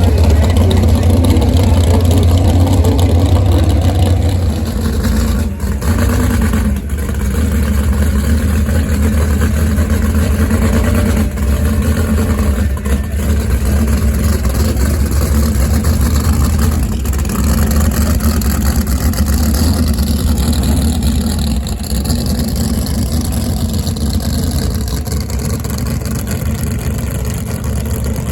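Racing jet boat engines running steadily, a loud low drone with brief dips a few seconds in.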